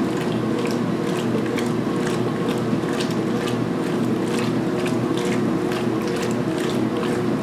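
2016 Speed Queen top-load washer agitating a load of towels during its main wash: a steady belt-driven motor and transmission hum, with a regular stroke sound two to three times a second as the agitator reverses.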